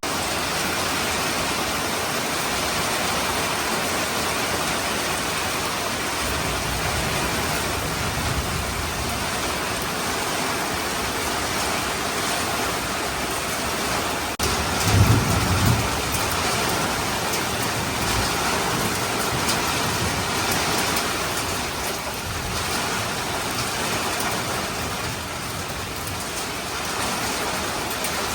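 Heavy rain pouring steadily, with a short low rumble of thunder about halfway through.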